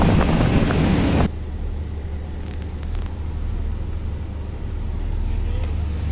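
Wind and rushing water cut off abruptly about a second in, giving way to an engine's steady low hum heard from inside a vehicle or vessel.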